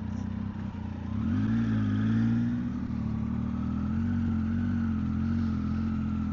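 Triumph Tiger 800's three-cylinder engine running on the move, its pitch rising about a second in as it speeds up, then holding steady.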